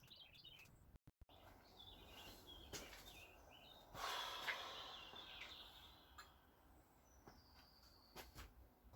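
Near silence with faint bird chirps and twitters, and a brief soft rush of noise about four seconds in.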